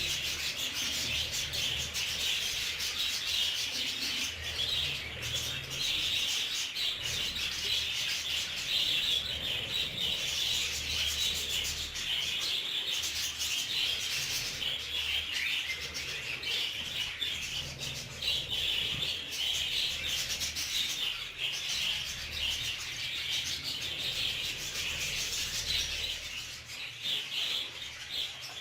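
A flock of budgerigars chattering without pause, with many small clicks and rustling mixed in.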